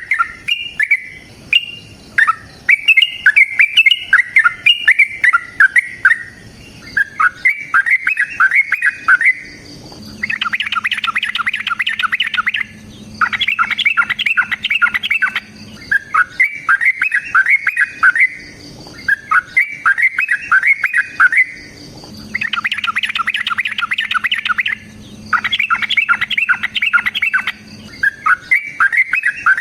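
Yellow-vented bulbul (trucukan) singing long, rapid, bubbly chattering phrases, each two to three seconds long, with short pauses between them. Two of the phrases, about ten seconds in and again about twenty-two seconds in, are denser and come with a faint low hum underneath.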